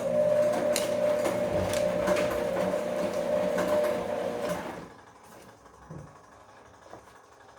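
Bosch washing machine's drum turning with a steady motor hum and tumbling laundry for nearly five seconds, then stopping; after that only faint clicks.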